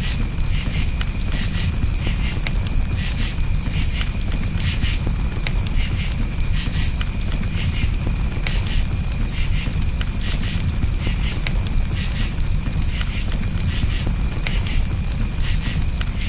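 Crickets chirping in steady, regular pulses over a crackling campfire that gives off frequent sharp pops, with a steady low rumble underneath.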